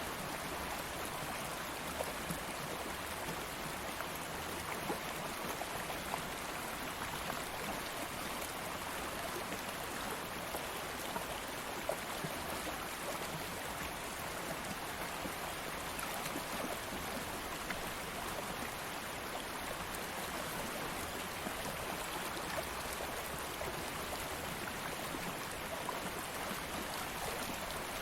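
A stream of flowing water running steadily, an even rushing with small splashes and trickles scattered through it.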